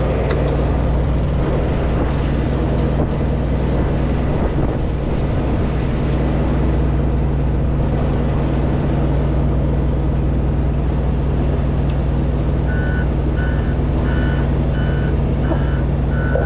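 Engine idling steadily, a low even hum. About thirteen seconds in, a reversing alarm starts beeping about twice a second.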